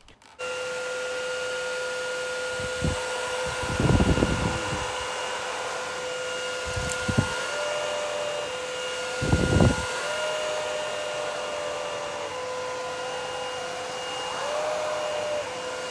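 Xiaomi Mijia 2S Slim cordless stick vacuum starting up about half a second in and running steadily with a whine while vacuuming carpet. Its pitch steps up and back down briefly several times, and a few short low rumbles come through.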